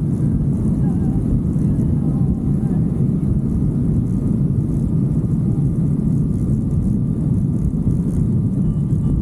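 Motorcycle riding at steady speed: a constant low rumble of engine and rushing air.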